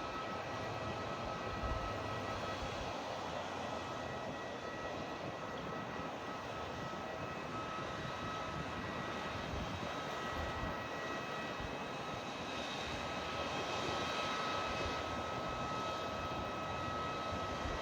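Airliner engines running steadily: a continuous rushing noise with a high, even whine on top, growing slightly louder about two-thirds of the way through.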